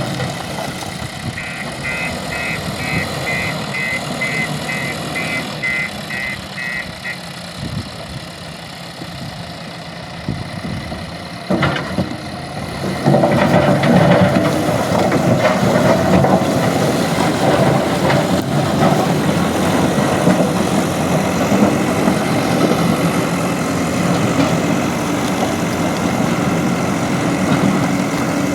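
JCB 3DX Plus backhoe loader's diesel engine running, with a reversing alarm beeping about twice a second for several seconds near the start. About halfway through, the engine gets louder and stays under heavier running to the end.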